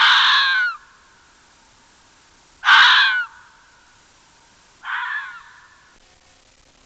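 A bird giving three harsh calls, each under a second long and falling in pitch, about two seconds apart; the third is quieter.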